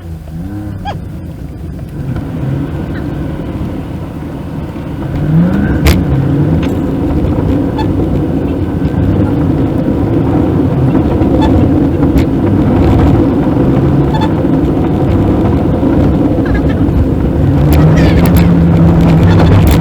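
Car engine and road noise, heard from inside the cabin of a Maruti Suzuki WagonR with an automated manual gearbox. The engine note rises and falls as it pulls, with a brief climb in pitch about five seconds in and a steady drone near the end.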